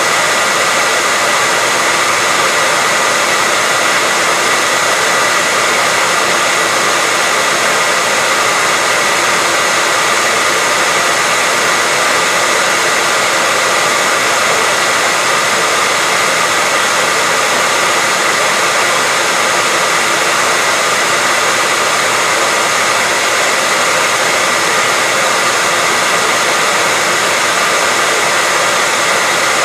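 Hair dryer running steadily: a constant rush of air with a faint high whine through it, unchanging throughout.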